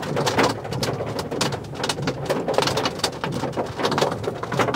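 Quarter-size hailstones, about an inch across, pelting a vehicle's roof and windows, heard from inside the cab as a dense, irregular clatter of sharp hits.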